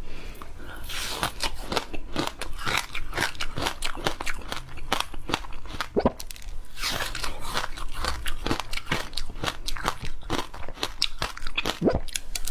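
Frozen passion fruit ice being bitten and chewed: a dense, irregular run of sharp, crackly crunches that starts about a second in.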